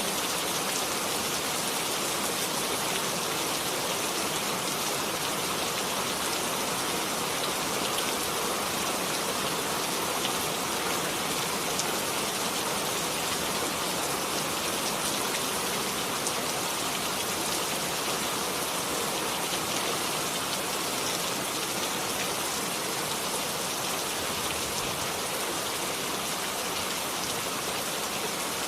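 Steady rain falling, an even hiss dotted with fine individual drop patters, unchanging throughout.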